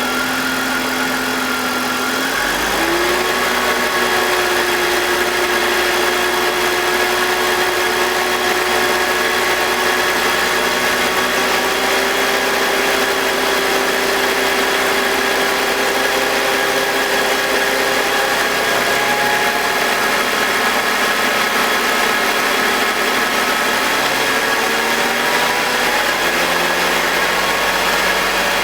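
BMW M52TUB25 2.5-litre straight-six idling with the intake VANOS unplugged, a steady hum that steps up in pitch about two seconds in and eases down near the end. No grinding is heard: this is the test that clears or points to the VANOS as the source of the grinding.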